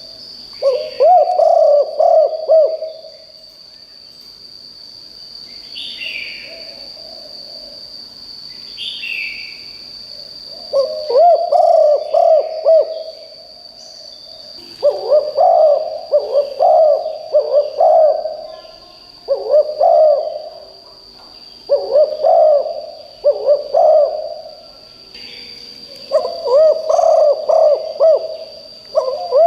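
Spotted dove cooing in repeated bouts of several quick, rhythmic coo notes, with pauses of a few seconds between bouts. A steady high-pitched tone runs underneath, and another bird gives two short, falling chirps between the first bouts.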